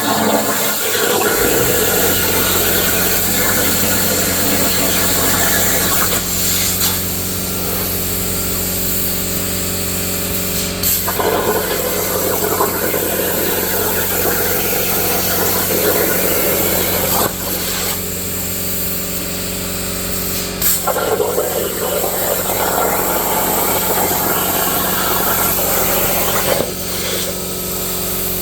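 Plasma torch of a CNC plasma table cutting a steel saw blade: a steady harsh hiss, broken off sharply and restarted several times, over a steady machine hum that starts about a second in.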